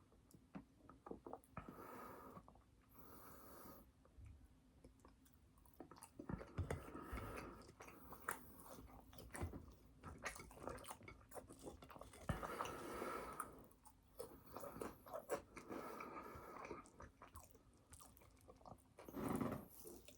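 A person chewing and biting food close to the microphone: irregular wet mouth clicks and smacks with soft crunching, and a louder burst near the end.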